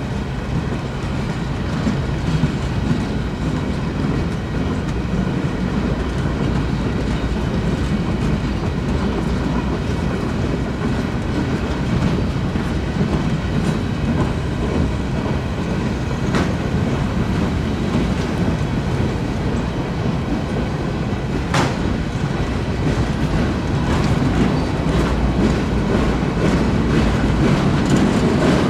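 Freight cars of a CSX manifest train rolling past at a level crossing: a steady rumble of wheels on rail with clickety-clack over the joints and a sharp click about three-quarters of the way through.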